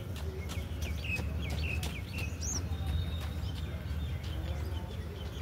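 Small birds chirping: a quick run of short, sharp chirps through the first two seconds or so, with a higher looping call about two and a half seconds in, over a steady low hum.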